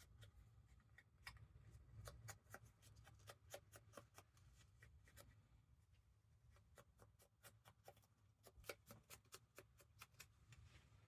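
Faint, irregular light tapping, several taps a second, from an ink pad or ink blending tool being dabbed along the edges of a paper craft piece.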